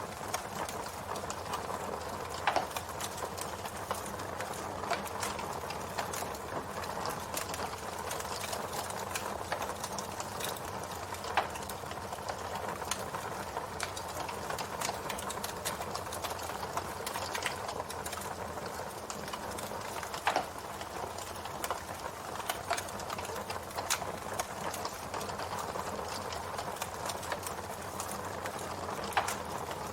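Campfire burning: a steady hiss with constant irregular crackling and a sharper pop every nine seconds or so.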